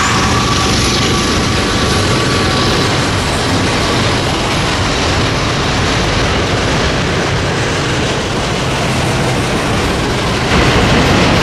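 Union Pacific freight train passing close by. A steady whine at first from the lead locomotives fades within the first few seconds, leaving the even rumble of double-stack intermodal cars rolling past on the rails. The rumble gets louder and brighter near the end.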